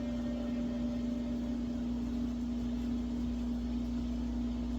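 Steady machine hum: a constant low tone over an even rumble and hiss, unchanging throughout.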